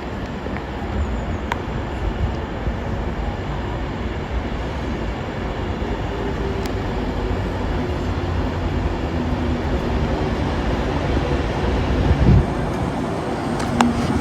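Passenger train running through the station, a steady rumble of wheels on rails that slowly grows a little louder.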